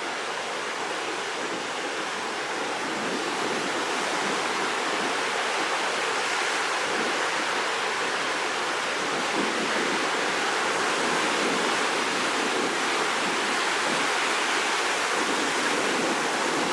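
Rough sea ahead of a typhoon: a continuous wash of surf and breaking waves, growing slightly louder after a few seconds.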